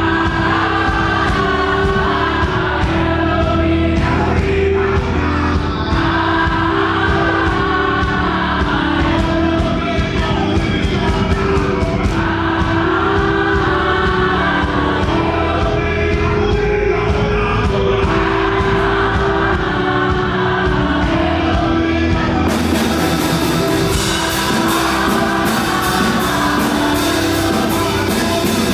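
Live fast gospel worship music: a group of singers over a full band with steady drums. About three-quarters of the way through, the high percussion becomes much brighter and fuller.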